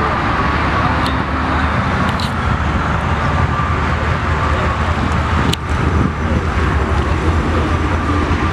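Steady low rumble of idling car engines, with a few short sharp clicks.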